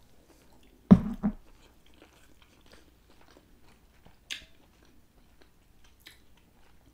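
Close-miked chewing of a mouthful of shellfish meat, with small wet mouth clicks throughout. A louder double thump comes about a second in, and a sharp click a little after four seconds.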